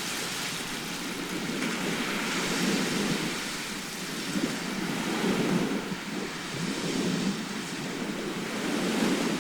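Sea surf: a steady rush of breaking waves, swelling and easing every second or two.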